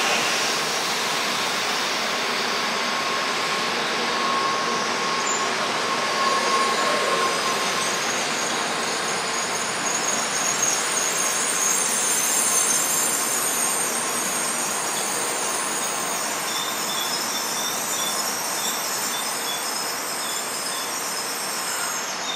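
Shinkansen bullet train moving along the platform: a steady rush of wheel and air noise, with a faint high squeal from the wheels.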